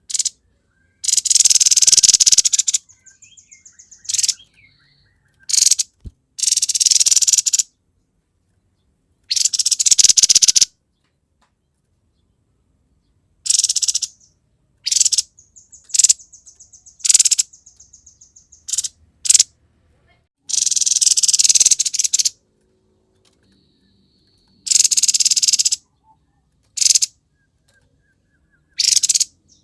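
Grey-headed babbler (tepus kepala abu) singing vigorously in the harsh, rasping style keepers call "gacor konslet". It gives about ten loud, scratchy bursts of half a second to two seconds each, with softer rapid buzzy trills between them.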